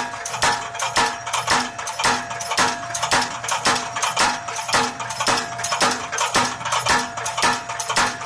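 Motor-driven power hammer striking steadily, about two blows a second, each a sharp metallic clang, over the steady hum of its electric motor. It is drawing out a bar of steel.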